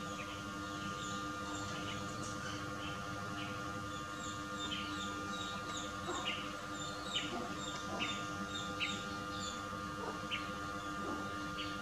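Many small birds chirping in short, quick, high calls, busiest in the middle, over a steady background hum.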